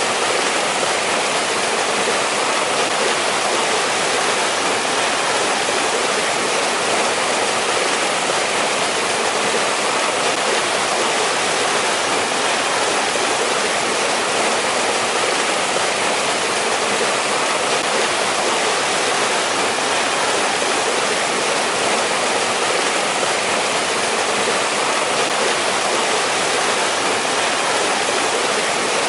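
Mountain valley stream in winter, water rushing and splashing steadily over rocks.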